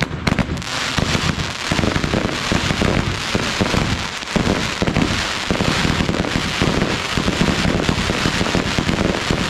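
Ground-launched fireworks battery firing continuously, its shots and crackling bursts packed closely together, with a brief lull about four seconds in.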